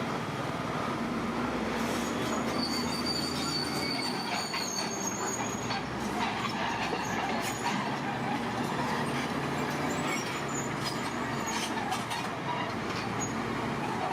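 Steel crawler tracks of a heavy bulldozer squealing and clanking as it runs, over the steady drone of its diesel engine, with scattered knocks throughout.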